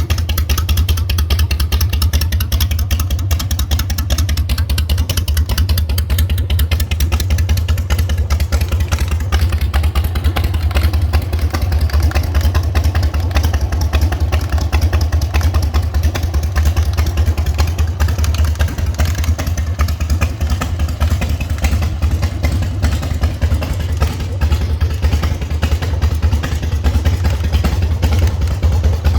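Custom Vulcan show motorcycle with two S&S engines running steadily at a low, even speed. The engine note is deep and holds steady throughout, with no revving.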